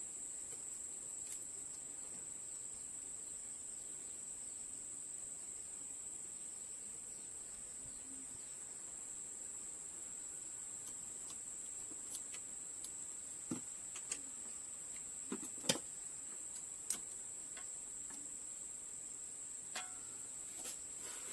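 Steady high-pitched drone of insects, likely crickets, with a few sharp clicks and ticks scattered through the second half.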